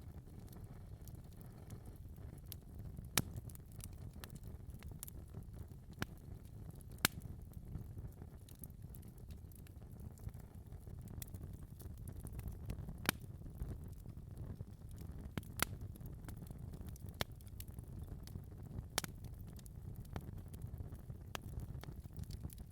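Wood fire in a fireplace burning with a low steady rumble and scattered sharp crackles and pops, one every second or two.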